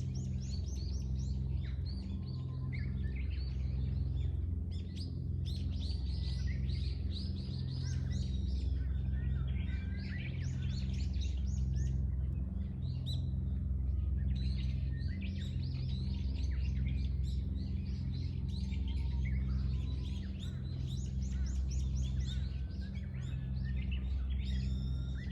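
Small birds chirping and twittering in repeated overlapping bouts, over a steady low hum.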